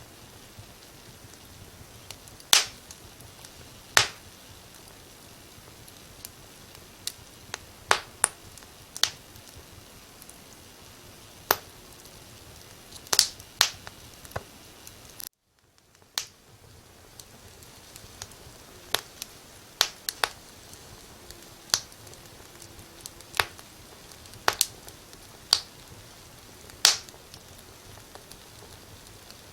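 Wood fire crackling: sharp, irregular pops and snaps over a soft steady hiss. The sound cuts out for about a second halfway through, then fades back in.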